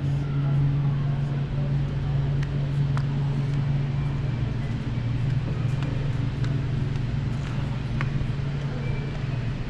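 A steady low hum with a constant pitch, with a few faint clicks over it.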